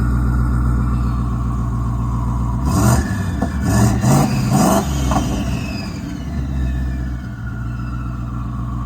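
Twin-turbocharged Coyote 5.0 V8 idling, then blipped hard several times in quick succession about three seconds in, each rev loud and sharp-edged. After the revs a whistle falls in pitch as the engine settles back to idle.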